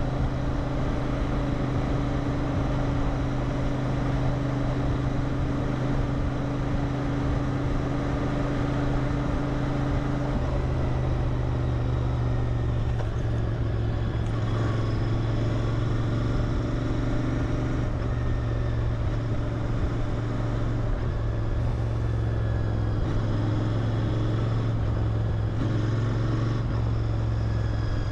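Royal Enfield Interceptor 650's 648 cc parallel-twin running through its stock exhaust while riding at a steady speed. The engine note changes about ten seconds in, then holds steady again.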